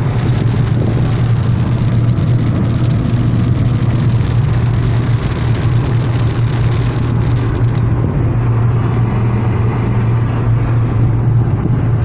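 Car in heavy rain: a steady low engine drone under the hiss of rain and wet road. The high part of the hiss thins about eight seconds in.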